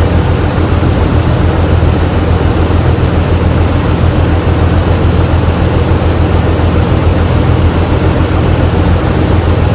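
Jeep Liberty 3.7-litre V6 idling steadily with an ignition misfire, which the mechanic traces to a failed coil with no spark on cylinder number 5.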